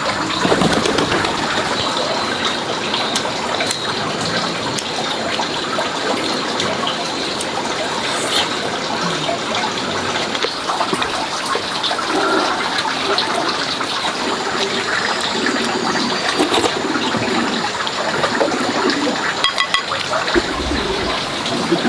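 Water running and splashing steadily, with small scattered clicks and knocks.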